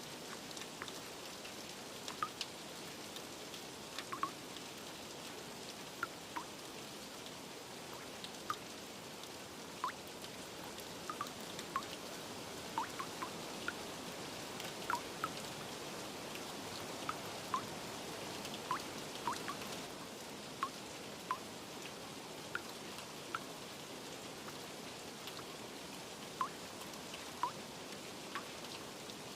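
Steady rain with single water drops plinking at uneven intervals, about one a second.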